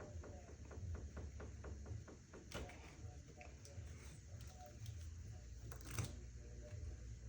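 Ratchet wrench clicking rapidly, about six clicks a second for the first two seconds, as bolts on an engine cover are turned out; then a few sharp knocks of tools or parts, the loudest about six seconds in, over a low hum.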